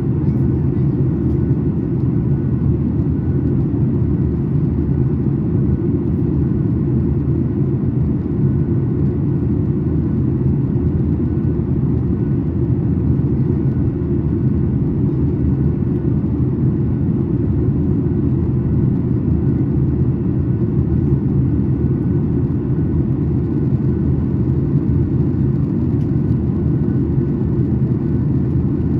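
Steady cabin noise inside a Boeing 737 MAX 8 airliner in flight: a loud, even rumble of airflow and its CFM LEAP-1B engines, with no change in pitch or level.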